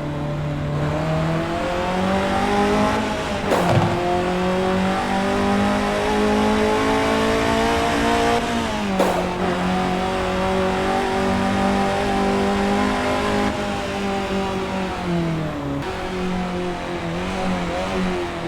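Honda Civic FD2 Type R's 2.0-litre K20A four-cylinder engine pulling hard under acceleration, its pitch climbing and dropping sharply at two upshifts, about three and a half and nine seconds in. It then holds a steady high note and eases off near the end.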